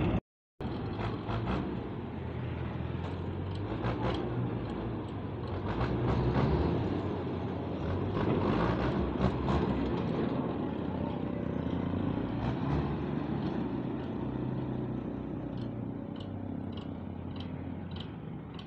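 Belarus 510 tractor's diesel engine running with a steady low drone and scattered light clicks and knocks over it. The sound cuts out completely for a moment about half a second in.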